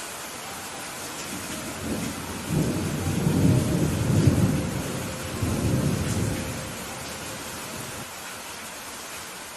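Steady rain falling with a long low rumble of thunder that rolls in about two seconds in, swells twice, and dies away over the next few seconds.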